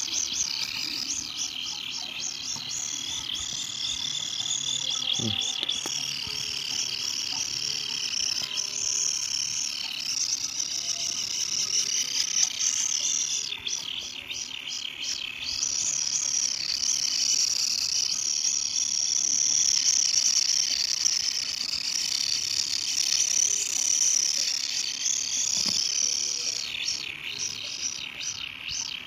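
Kingfisher chick (tengkek udang mini) giving its high, continuous, alarm-like begging call at feeding time, with a rapid pulsing texture and no pause.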